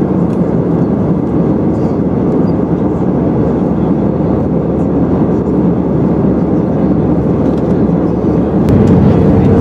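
Steady cabin noise inside an Airbus A320-214: the CFM56 jet engines and the airflow over the fuselage. It grows slightly louder in the last second, when a steady hum appears.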